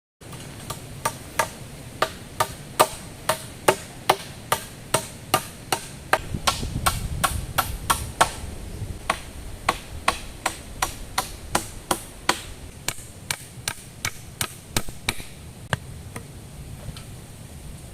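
A blade chopping into wood: sharp, regular strikes about two to three a second, growing softer and more irregular toward the end.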